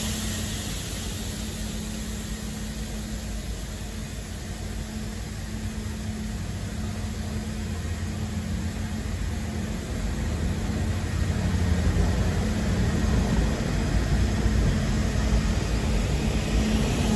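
A train rolling slowly past: a steady low rumble with a constant hum, growing louder about two-thirds of the way through.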